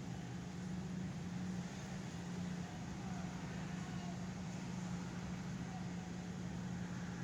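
Steady rushing wind noise of a thunderstorm, with a low steady hum underneath; no thunder clap.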